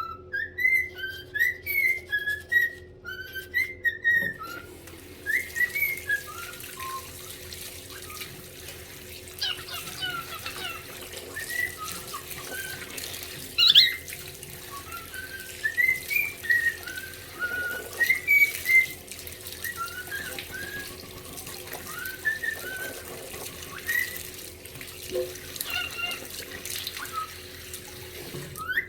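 Cockatiel whistling a string of short, rising chirpy notes, busiest in the first few seconds and carrying on throughout. From about four seconds in, a steady rush of running water sounds underneath.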